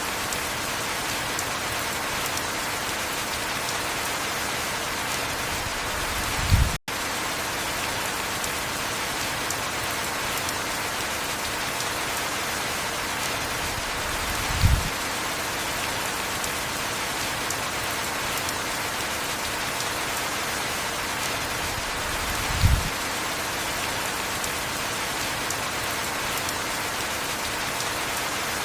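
Heavy rain falling steadily as an even hiss. A short low thump stands out about every eight seconds, three times. The sound cuts out for an instant about seven seconds in.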